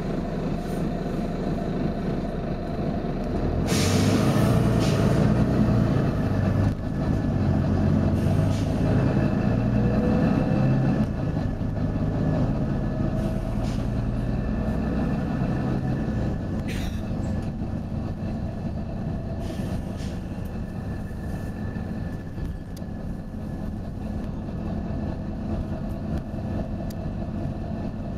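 Volvo B9TL bus's six-cylinder diesel engine running, with a sharp burst of compressed-air hiss about four seconds in, after which the engine runs louder for several seconds before settling back. A few fainter, shorter air hisses follow later.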